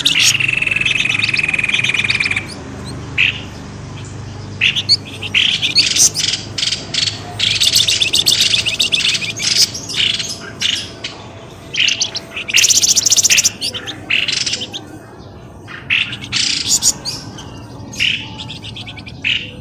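Noisy lure-call recording of pelamboyan birds: a high whistle held and sliding slightly down for about two seconds, then dense bursts of rapid chirps and rattling calls.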